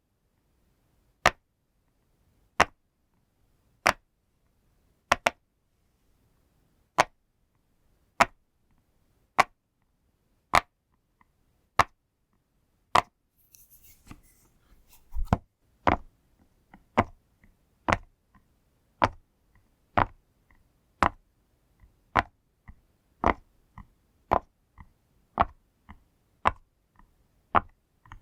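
Bubbles of a pop toy being pressed one at a time: single sharp pops about every 1.3 seconds, a brief rustle of handling about halfway through, then quicker pops, roughly one or two a second.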